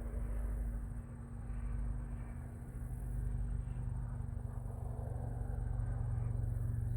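Vehicle engine running steadily, a low droning hum.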